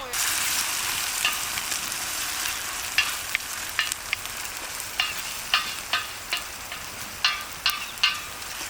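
Vegetables and sausage sizzling in a hot cauldron, the hiss jumping up suddenly as the tomatoes go in, then easing. From a few seconds in, stirring with a utensil knocking sharply against the cauldron at irregular intervals.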